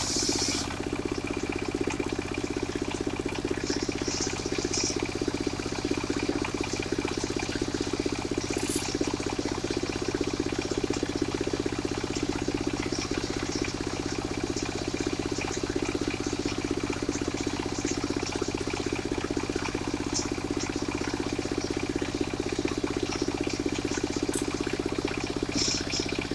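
Engine of a mobile circular sawmill running steadily, a constant hum with a few faint clicks.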